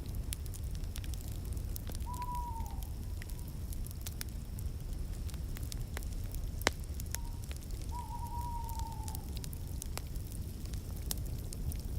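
Fireplace fire crackling over a low rumble, with scattered sharp pops, the loudest a little past the middle. A bird gives two drawn-out calls that fall in pitch at the end, about two seconds in and again from about seven seconds, the second one longer.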